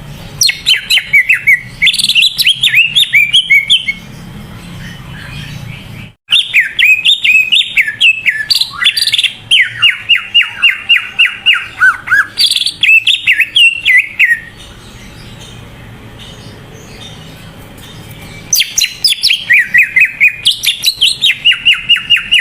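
Cucak ijo (green leafbird) singing in full, vigorous song. Long phrases of rapid, sharp chirping notes, several a second, rise and fall in pitch, with short pauses of a couple of seconds between phrases.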